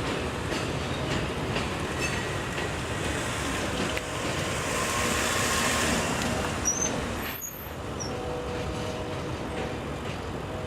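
Railroad freight cars rolling past on steel wheels, a steady rumble with regular clicks over the rail joints and light squealing tones from the wheels, briefly dropping in level about seven seconds in.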